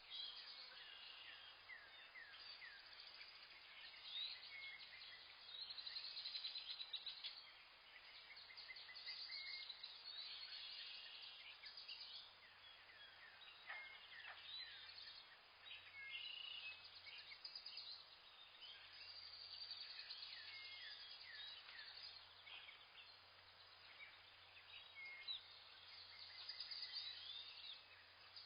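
Faint chorus of small birds chirping, many short high calls overlapping and repeating without pause.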